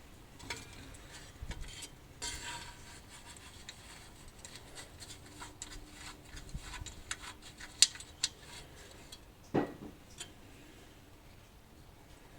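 Hand tools clinking, clicking and scraping on metal while undoing the engine fan's bolts, with a sharp click about two-thirds of the way through and a duller knock about a second later.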